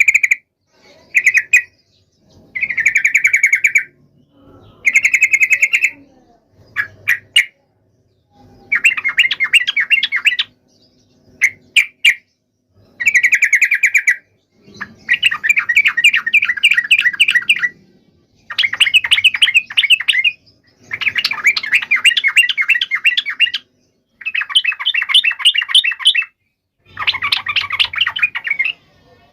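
Yellow-vented bulbul (trucuk) singing loud, fast chattering phrases, about a dozen in a row with short pauses between them; the later phrases run longer, two to three seconds each. It is an excited, combative song of the kind played to provoke a bulbul into answering.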